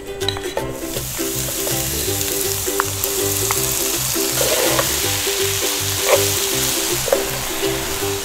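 Vegetables and kimchi sizzling in hot oil in a frying pan, the sizzle starting about a second in, with a few light knocks, over light background music.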